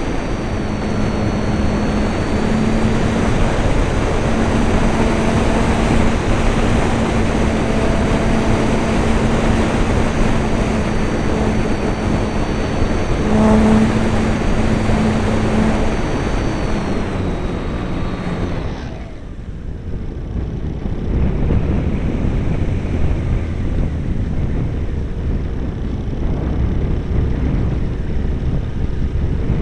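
Radio-controlled model airplane's motor and propeller running steadily with a high whine, heard with wind rushing over the onboard camera's microphone. About two-thirds of the way through, the motor tone stops and only wind noise and a low rumble remain, as when the throttle is cut and the plane glides.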